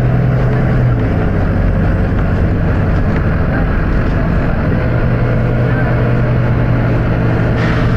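Volvo B9TL double-deck bus's diesel engine running with a steady low drone that eases off about a second in and picks up again about five seconds in. A short hiss comes near the end.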